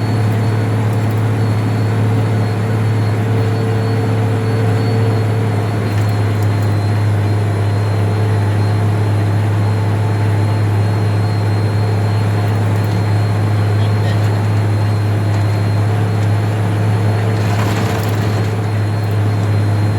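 Freightliner dump truck's diesel engine running with a steady low drone while the truck climbs a hill.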